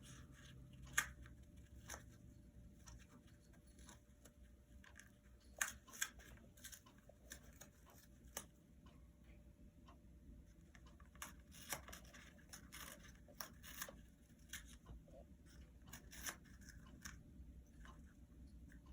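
Congo African grey parrot tearing and crunching toilet paper with its beak: irregular short rips and sharp clicks, coming in little clusters with pauses between.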